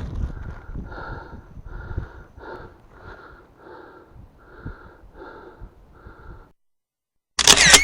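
A winded man panting hard, about two breaths a second, with low rumbling handling noise under it; the panting stops abruptly and a short, very loud blast comes near the end.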